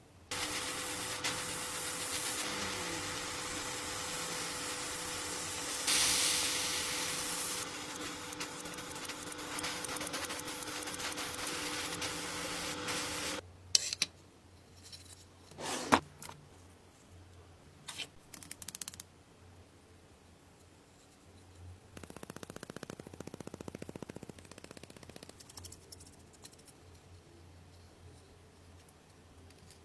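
A power tool running steadily with a hiss and a steady hum, cutting off suddenly about halfway through. A few sharp clicks and knocks follow, then a short buzzing run lasting a few seconds.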